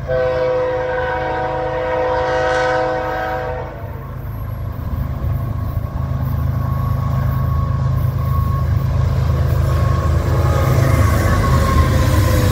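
A freight train's locomotive air horn sounds one long chord for about three and a half seconds. Then the low rumble of the leading GE ES44C4 diesel locomotives and their wheels on the rails grows steadily louder as they approach and pass close by near the end.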